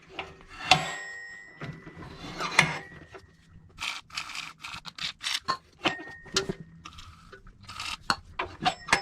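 Metal tools and parts clinking and knocking against a wood chipper's steel housing, some taps ringing briefly, with short scraping, rasping bursts in between.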